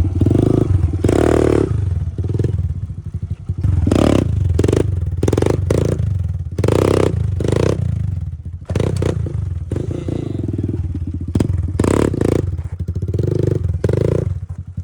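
Small off-road motorcycle engine revved in repeated surges of throttle, the engine note rising and dropping back again and again.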